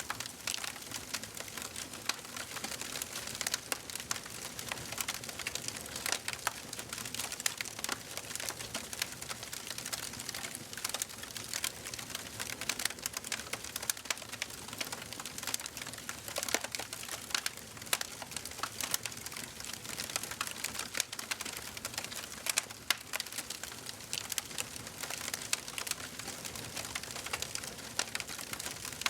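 Wood fire in a fireplace burning, with constant irregular crackles and pops over a soft hiss.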